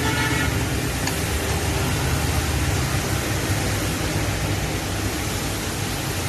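Steady background noise: an even hiss over a low, engine-like rumble.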